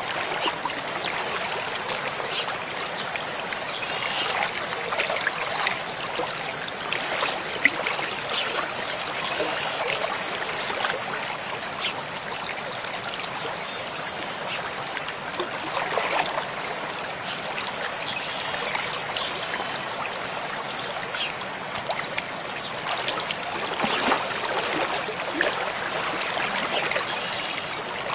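Mountain stream flowing over rocks: a steady rush of water with many small gurgles and splashes.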